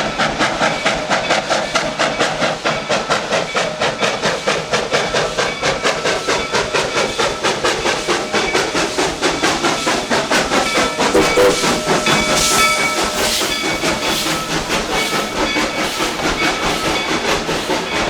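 Narrow-gauge steam train running, with a fast, even rhythmic clatter and a hiss of steam throughout. Past the middle a steady high tone sounds for a few seconds along with a louder burst of hiss.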